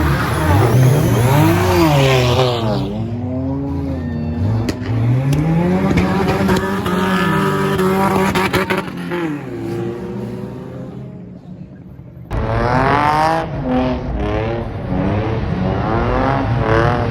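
Car engines revving hard, the pitch climbing and falling again and again, with tire squeal as cars pull away sliding. About 12 seconds in, the sound cuts abruptly to another car revving in quick rising and falling bursts.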